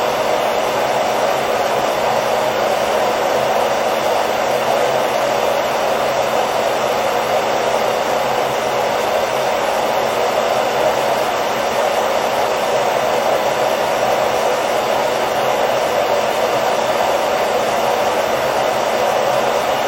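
Hair dryer running continuously, a steady, even blowing noise with a faint motor hum, played as white noise to lull a baby to sleep.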